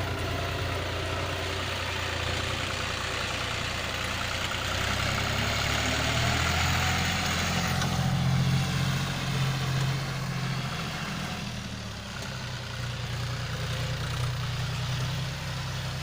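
Three-cylinder diesel engine of a John Deere 5039D tractor running. Its note rises and gets louder about a third of the way in, then eases back down about three-quarters of the way through.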